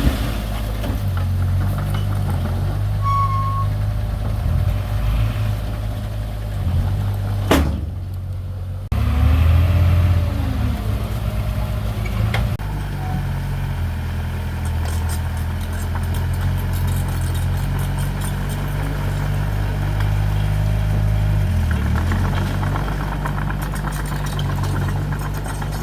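Diesel engine of heavy earthmoving equipment running steadily, louder for a moment about nine seconds in, with a sharp click just before.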